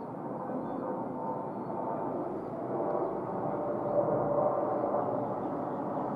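Jet engines of a Boeing 747 freighter heard from afar: a steady rumbling roar with a faint hum running through it, growing slightly louder over the few seconds.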